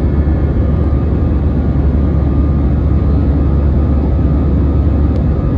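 Steady low rumble of an Airbus A321's jet engines heard inside the passenger cabin, with a few faint steady tones above it.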